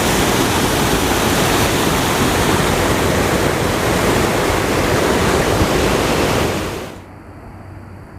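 Waterfall on a river rushing steadily and loudly. It cuts off sharply near the end, leaving a much quieter hush.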